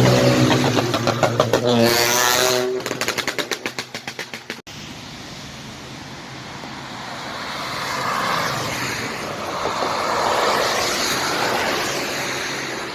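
A car engine revs with rising pitch, then drops into a fast pulsing exhaust burble that fades away. After a sudden cut, tyres hiss on a wet road as traffic passes, swelling twice.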